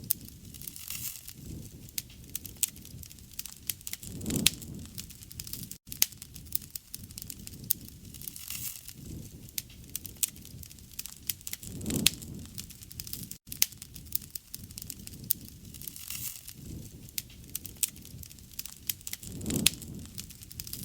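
Wood fire crackling, with many sharp pops and snaps over a steady low rush of flame that swells three times, about every seven or eight seconds.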